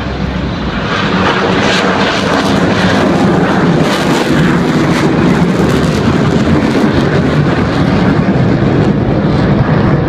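F-16C fighter jet in full afterburner: a loud jet noise with crackling through it, building over the first second or so and then holding steady.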